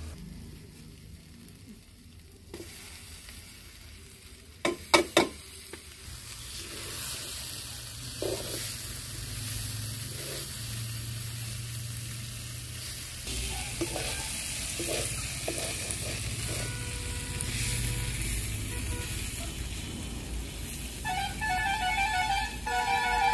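Vegetables sizzling as they fry in a steel kadai over a wood fire, stirred with a metal ladle that scrapes the pan. About five seconds in there are a few sharp metal knocks of the ladle against the pan.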